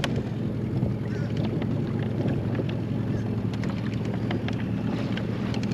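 Boat motor running steadily at low speed, with wind rumbling on the microphone and a few light knocks.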